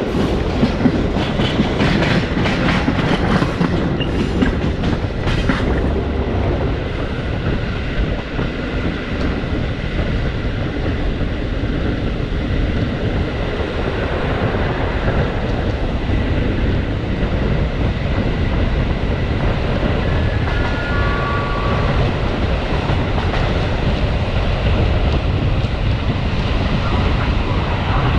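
Passenger train carriage running on the line, heard from its open window: wheels clicking over rail joints in quick clusters in the first few seconds, then a steady rumble and rush of wheels and air. A short three-note falling chime sounds about twenty seconds in.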